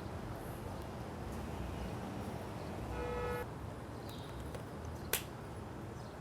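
A steady low background hum, with a short electronic beep about three seconds in and a single sharp click about five seconds in.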